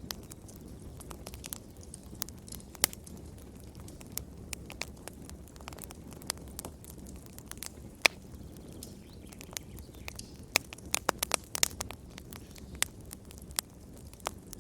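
Fire in a fireplace crackling: a steady low rumble of flames with sharp pops scattered throughout, coming in a quick cluster a little past the middle, the loudest single pop about eight seconds in.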